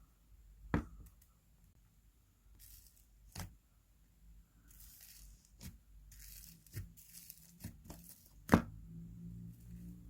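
Slime and its plastic packaging being handled: crinkly, tearing noises broken by several sharp clicks and pops, the loudest near the end.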